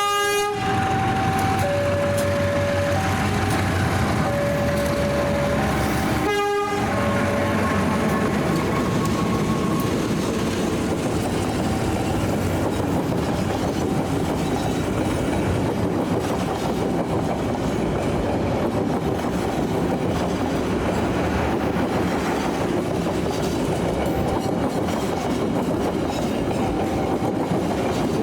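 A train passing with a steady rumble and clatter of wheels on rail. A level-crossing warning alarm alternates between two tones, plain for the first six seconds and faint under the train noise after that.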